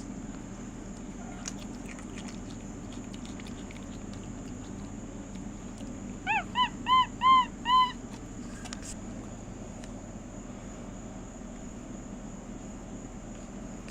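A pet monkey giving five short, high squeaky calls in quick succession about halfway through, each rising then falling in pitch.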